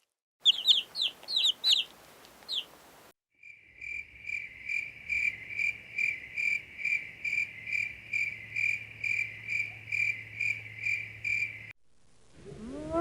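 A handful of quick, high, falling chirps. Then a steady, even chirping of about two and a half pulses a second, like a cricket.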